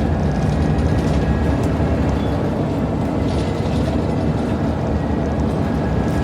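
Scania N94UD Omnidekka double-decker bus's 9-litre five-cylinder diesel engine running steadily as the bus is under way, heard inside the bus as a low drone with a faint high whine and scattered light clicks and rattles.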